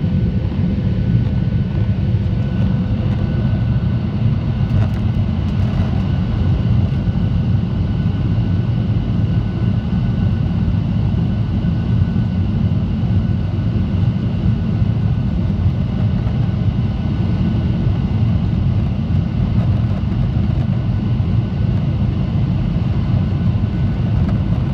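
Boeing 737-800 in its climb after takeoff: a steady, even rumble of its CFM56-7B jet engines and airflow, with faint steady whining tones above it.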